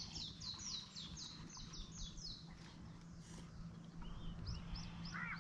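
Wild birds calling: a quick run of high, falling notes, about four a second, for the first two and a half seconds, then a few short rising chirps and lower, arched calls near the end, over a faint steady low hum.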